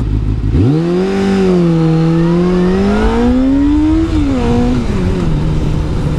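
Kawasaki ZZR600 inline-four motorcycle engine pulling away. The revs jump up about half a second in and climb steadily, then drop back about four seconds in and settle to a steady lower note.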